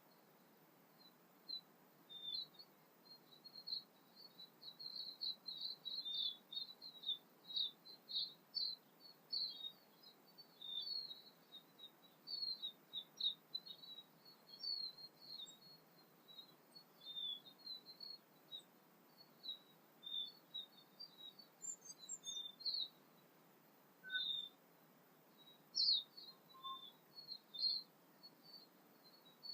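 Birds chirping: a dense run of short, high notes that thins out after the halfway point, with a couple of lower notes near the end.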